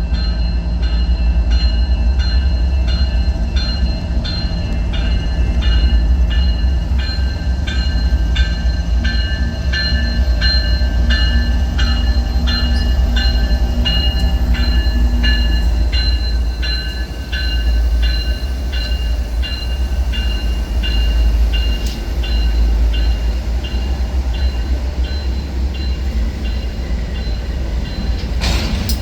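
A train running past with a heavy, steady low rumble, while a bell rings about twice a second in clear repeated strikes, typical of a railroad grade-crossing bell; the bell fades out near the end.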